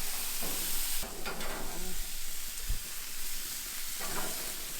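Burger patties sizzling steadily as they fry.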